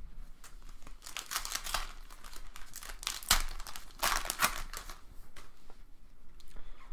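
Foil trading-card pack wrapper crinkling and tearing as a pack is handled and ripped open, in two main crackly bursts about a second in and around four seconds in, with a sharp click between them.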